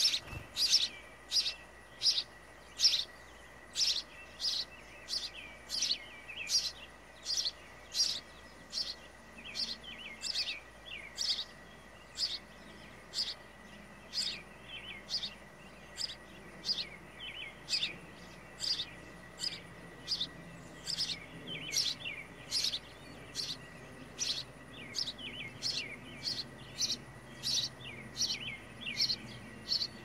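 A small songbird chirping at the nest box, one short sharp chirp after another at a steady pace of about two a second.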